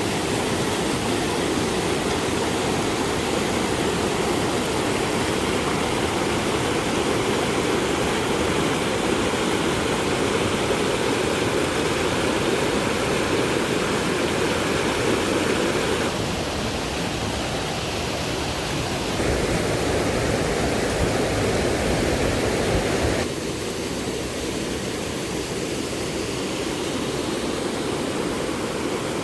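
Steady rushing noise with no clear pitch, changing level abruptly a little past halfway and again about three-quarters through.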